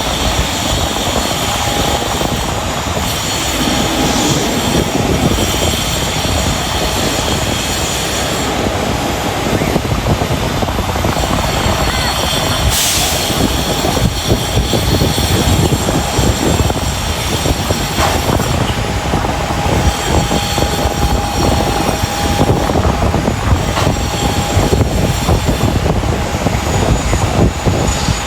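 Twin turbofan jet engines of a departing Boeing 737-8 (CFM LEAP-1B) running loud and steady: a dense rushing rumble with a few thin steady whines above it.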